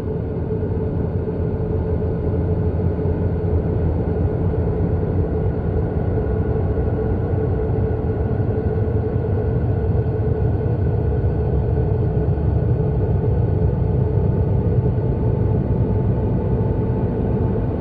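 The so-called sound of Neptune, spacecraft data converted into audio: a steady, low, noisy drone with a few held tones in it, unchanging throughout.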